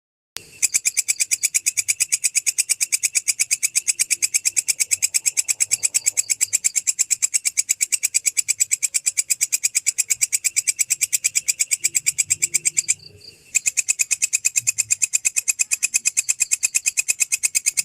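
Insect stridulating, a cricket or belalang kecek katydid: a loud, rapid, even train of high chirps, with a brief break about thirteen seconds in.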